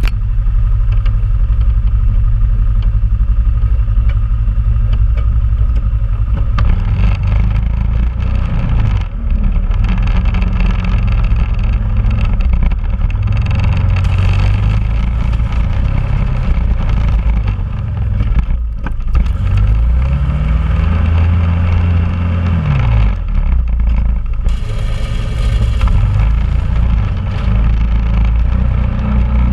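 2001 Honda Rubicon ATV's single-cylinder engine running while it plows snow. The engine note shifts as the throttle changes; about twenty seconds in it revs up, holds for a couple of seconds and drops back.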